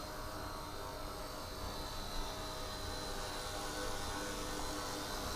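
Eachine E129 micro RC helicopter hovering, its electric motors and rotors giving a steady buzzing whir with an even pitch.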